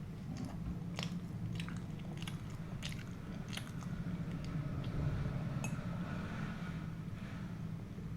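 Close-miked chewing and biting of crusty food, with several sharp crunches in the first half, then softer chewing, over a steady low hum.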